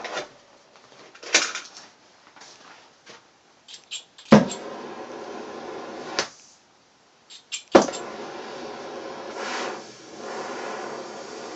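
Sharp knocks and clunks of things being handled, the loudest two about four and eight seconds in, with a steady hum running between and after them.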